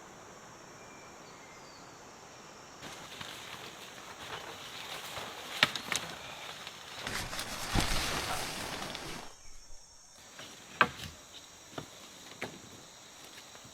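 Steady rainforest insect drone, with rustling of leaves and undergrowth and a few sharp snaps of twigs from about three seconds in; the rustling is loudest about eight seconds in.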